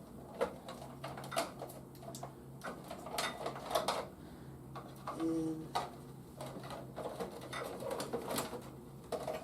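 Plastic toy vehicles and action figures being handled, giving irregular small clicks and taps, over a steady low hum.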